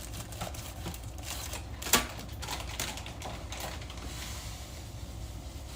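Scattered light clicks and taps of food preparation, with one sharper knock about two seconds in, over a steady low hum.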